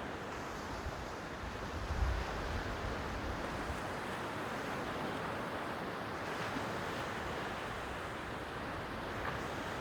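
Sea waves washing on the shore, a steady hiss of surf. About two seconds in, a short low rumble of wind on the microphone.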